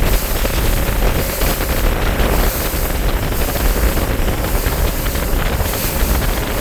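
Steady wind buffeting the microphone, a loud low rumble over the wash of water and a bass boat's running noise.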